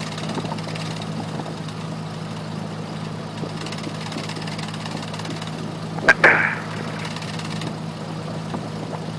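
Cessna 172F's engine running steadily at taxi power, a low even hum heard through the cockpit intercom, with a short click and crackle about six seconds in.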